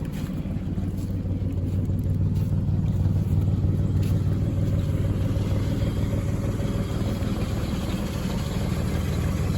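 Truck engine idling steadily just after a cold start in freezing weather, having fired right up without struggling.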